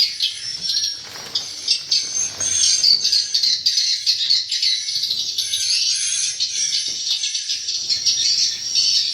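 Many swiftlets twittering together in a dense, continuous high chirping chorus.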